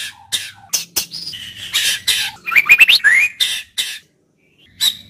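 White-rumped shama (murai batu) singing: quick runs of loud sharp notes, harsh chatter and rising whistled slurs. The song breaks off for a moment about four seconds in, then resumes.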